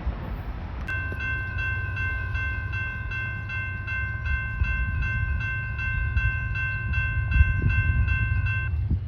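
Railroad grade-crossing bell ringing steadily at about three strokes a second, starting about a second in and stopping shortly before the end, over a low rumble.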